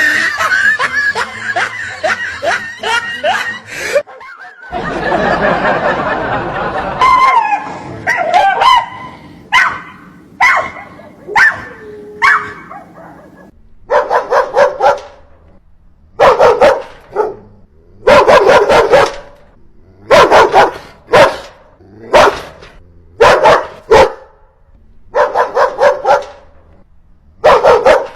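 A dog barking in quick bursts of several barks each, repeated every couple of seconds through the second half. A stretch of dense, mixed noise fills the first half.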